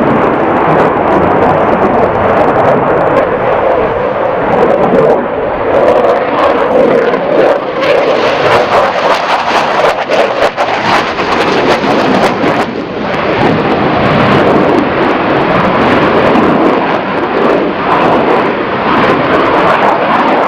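Jet aircraft engines running loud and steady, a dense rushing noise with fine crackle.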